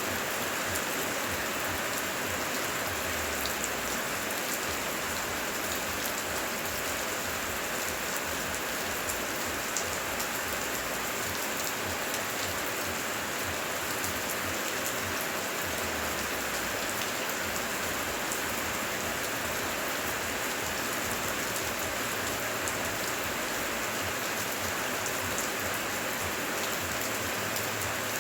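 Steady heavy rain, with many fine drop ticks in a dense, even rush.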